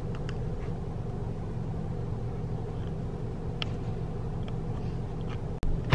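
Car engine idling steadily, heard from inside the cabin, with a few faint ticks.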